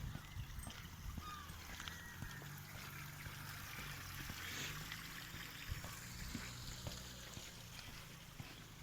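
Faint water trickling and flowing, over a low steady hum.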